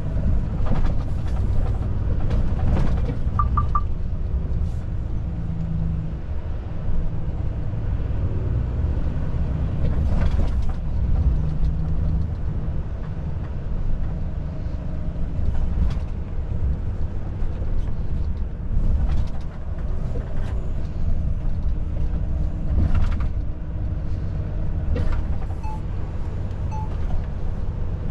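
Volvo FH truck on the move: a steady low engine and road rumble, with scattered knocks and rattles and a brief triple beep about three and a half seconds in.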